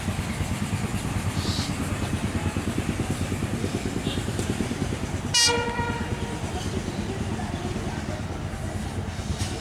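EMD GT42 diesel-electric locomotive running with a rapid low throb as the train pulls out. A short horn blast sounds about halfway through.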